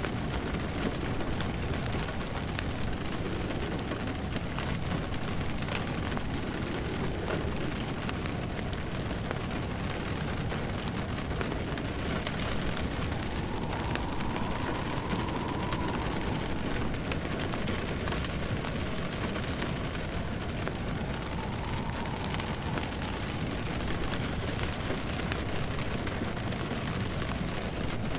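Steady rain falling on a surface, with a wood fire crackling in a fireplace, in a continuous ambience mix.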